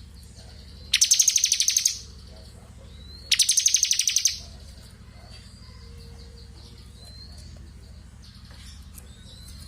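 Ciblek kristal (bar-winged prinia) singing its rapid, drill-like buzzing trill ("ngebren"). It gives two loud trills of about a second each, one about a second in and another just after three seconds, with faint short rising whistles between them over a low steady hum.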